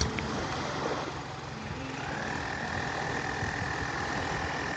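Steady low rumbling noise like an idling engine. A steady high-pitched tone joins about two seconds in.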